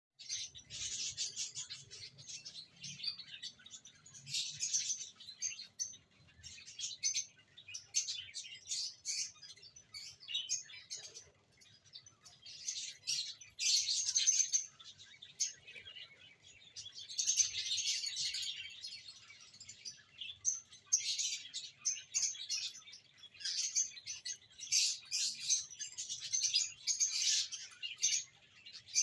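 Small pet parrots chirping in dense, high-pitched bursts that come and go every second or two.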